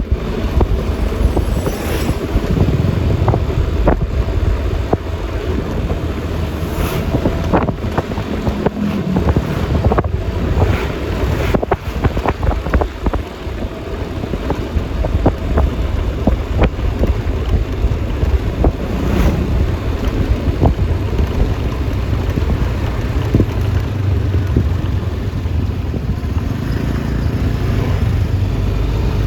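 Riding noise aboard a moving Yamaha Lexi LX 155 scooter: wind rushing over the microphone on top of the single-cylinder engine and road noise, with a few brief knocks.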